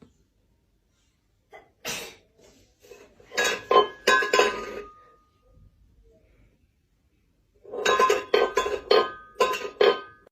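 Clinking and clattering, like glass or dishes knocked together, in three short spells with brief ringing tones.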